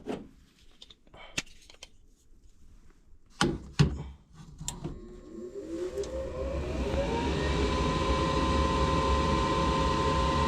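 A few sharp clicks and knocks, then the newly installed furnace draft inducer motor starts up: a rising whine that levels off about seven seconds in into a steady, even hum. It runs smoothly, with no screech: the replacement motor has cured the noise fault.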